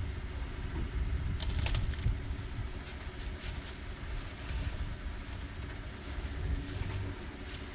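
Truck engine running low and steady as it slowly pushes a dead truck, with a few short knocks.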